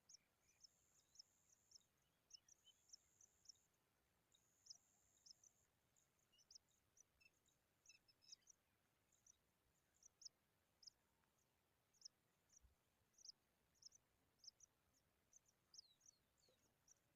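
Faint, thin, high-pitched chirps, short and falling slightly in pitch, coming irregularly and several times a second at times, with a steady high buzz in stretches of about a second during the first few seconds.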